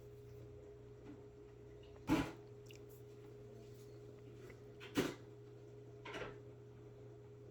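Three short knocks of household handling, about three seconds apart and then a second apart, over a steady low hum.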